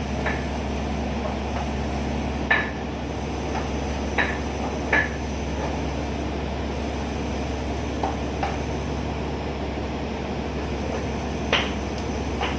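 Sharp knocks of a pestle against a stone mortar (cobek) as meat is pounded and ground for bakso, about seven at irregular intervals, each ringing briefly. Under them runs a steady low hum from the ship's engine.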